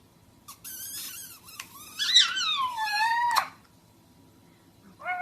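A pet animal calling: a run of high, squeaky cries, then louder cries that swoop up and down and end in a long falling wail, stopping a little past halfway.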